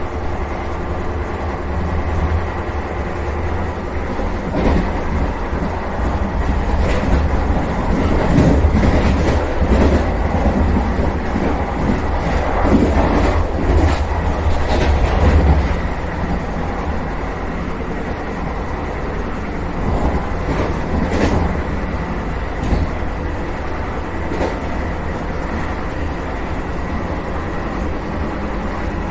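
Vande Bharat Express electric train running, heard from inside the driver's cab: a steady hum with wheels clattering over rail joints and points, louder and busier through the middle.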